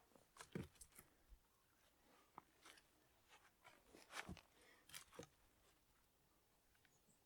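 Faint, scattered crunches and clicks, a handful of short sharp sounds at irregular intervals.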